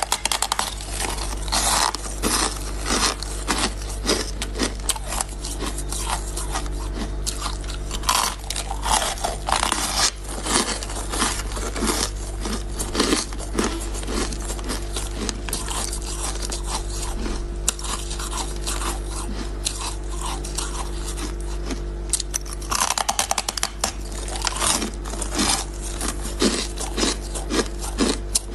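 Ice being bitten and chewed, a dense, irregular run of crisp crunches throughout, over a steady low hum.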